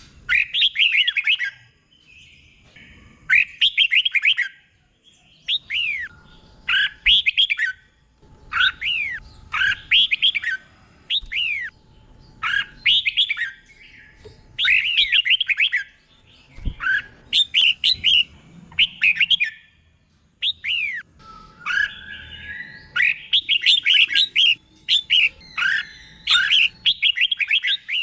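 Red-whiskered bulbul singing: short warbled phrases about a second long, repeated every second or two with brief pauses, often coming in doubled pairs.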